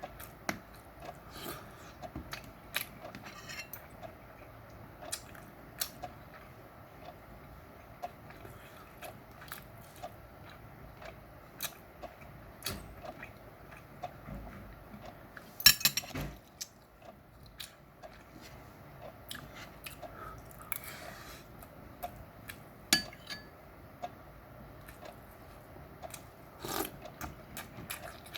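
Eating sounds: eating utensils clicking and clinking against dishes, with chewing between. The loudest clatter comes about halfway through.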